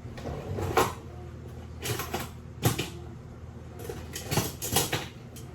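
Kitchenware being handled: about half a dozen separate knocks and clicks, as of pots, lids or utensils set down and moved.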